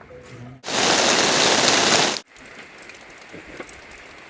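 Heavy rain. Just over half a second in, a much louder rush of rain noise starts abruptly and cuts off after about a second and a half, then steadier, quieter rain with scattered drops.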